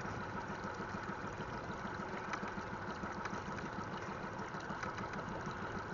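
Pontoon boat's outboard motor running steadily at idle, a rapid low pulsing under a constant hiss.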